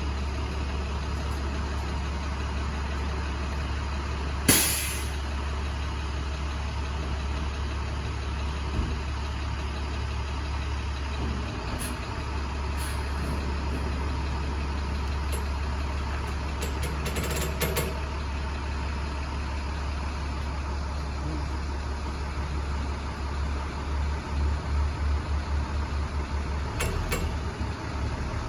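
Box truck engine idling with a steady low hum. A single sharp bang about four and a half seconds in, and a rapid low pulsing, about four a second, for a few seconds near the end.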